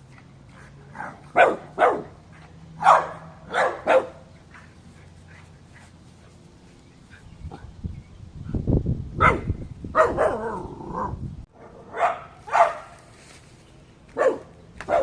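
Short, sharp animal calls, repeated in quick pairs and threes with gaps between the groups. A low rumbling noise comes in about eight seconds in and stops suddenly after about three seconds.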